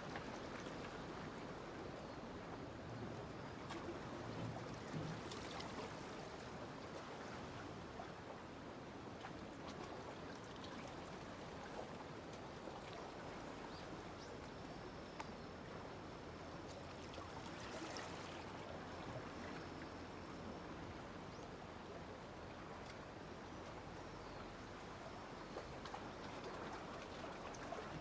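Faint, steady wash of sea water moving against a breakwater.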